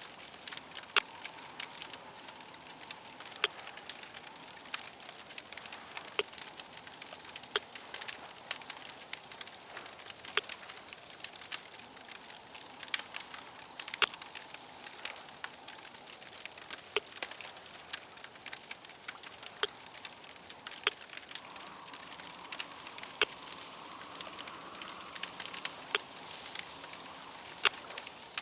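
Crackling fire: a steady hiss broken by frequent sharp pops and snaps.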